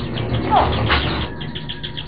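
Birds chirping: quick, high, repeated chirps several times a second, with a short lower call about half a second in.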